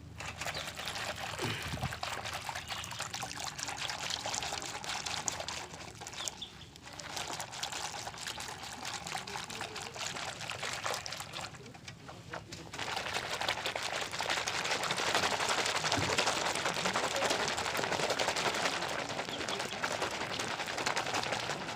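Soapy water being sloshed and poured as a dishwashing bar is worked into lather: a steady wet splashing with two short lulls, louder for the last third.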